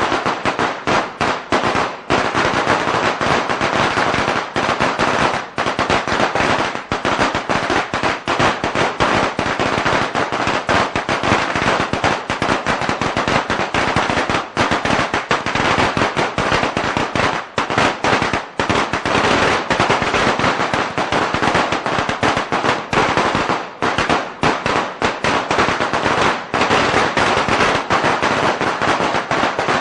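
A string of firecrackers going off in a continuous, rapid crackle of sharp pops with no pause.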